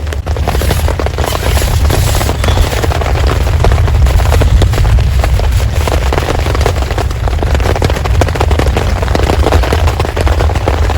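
Heavy rain pelting hard and close, a dense crackling patter of drops over a steady deep rumble.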